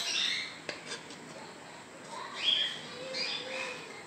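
Birds chirping in short, gliding calls, with a light click a little under a second in.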